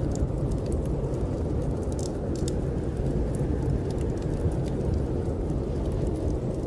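Steady low rumble of snowstorm wind, with a wood fire crackling in small, scattered pops over it.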